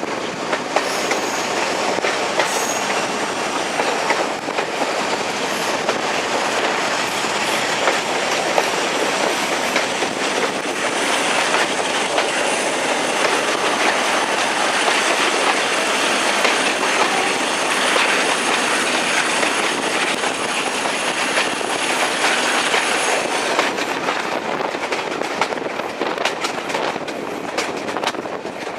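Train running along the line, its wheels clattering over rail joints, with a high steady squeal from the wheels that cuts off abruptly about 23 seconds in.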